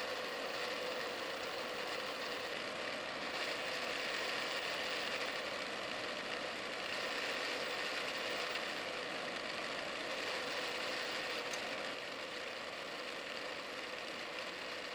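Mini lathe running steadily while cutting the internal profile of a turbine nozzle ring, its feed driven by G-code through an electronic leadscrew: an even machine hum with a faint steady tone.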